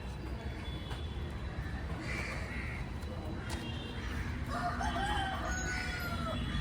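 A rooster crowing once, about four and a half seconds in, over a steady low background rumble.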